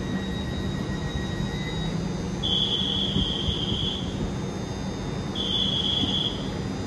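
A standing LNER Azuma (Hitachi AT300 bi-mode) under electric power, its cooling fans and electrical equipment running with a steady hum. Two long, high electronic beeps sound over it, about two and a half seconds in and again about five and a half seconds in.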